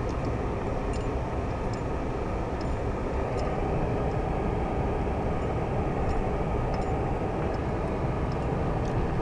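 Car driving slowly over snow-covered streets, heard from inside the cabin: a steady low rumble of engine and tyres, with faint irregular ticks scattered through it.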